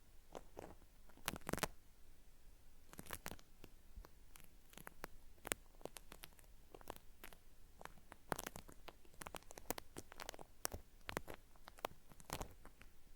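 Cotton swab scraping and rubbing against a binaural microphone's ear, making faint, irregular crisp crackles and scratches, like something being peeled off.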